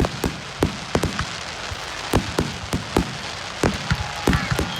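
Aerial fireworks going off: a rapid, irregular run of sharp bangs, about three a second, each trailing off in an echo, over a steady crackling hiss.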